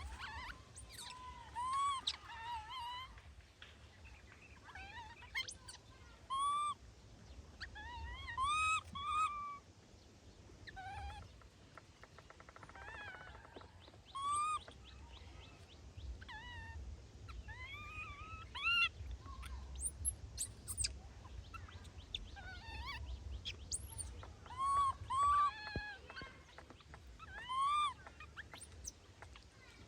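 Baby monkeys calling: short, high-pitched squealing cries that rise and fall, repeated in clusters of two or three, over a low steady rumble.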